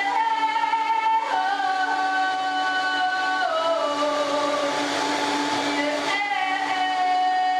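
Woman singing long held toning notes over the steady whir of a running Vitamix blender. Her notes step down in pitch about halfway through, and the blender's rushing noise swells between about four and six seconds in.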